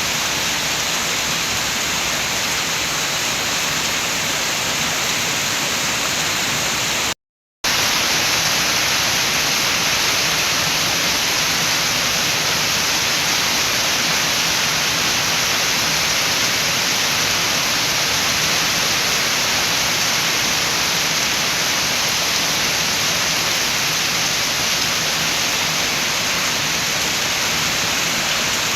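Steady rain with wind, a dense even hiss. About seven seconds in it cuts out to silence for half a second, then comes back slightly louder.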